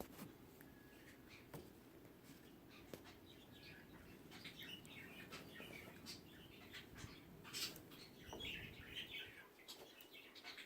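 Near silence: room tone with faint scattered ticks and soft high chirp-like sounds.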